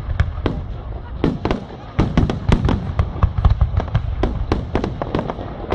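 Fireworks display going off: rapid, irregular sharp bangs of shells bursting, several a second, over a continuous low rumble, with a brief lull just before two seconds in.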